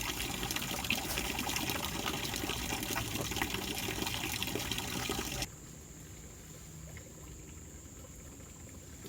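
River water trickling and splashing. About five and a half seconds in it cuts off abruptly to a much quieter background with a faint, steady high-pitched tone.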